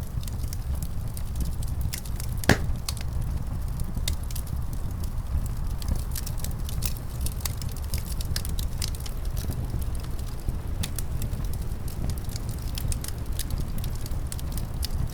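Wood fire crackling: many small snaps and one louder pop about two and a half seconds in, over a steady low rumble of wind.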